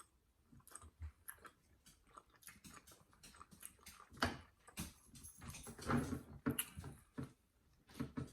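Soft scattered clicks and smacks of people eating, with a brief dog whine about six seconds in.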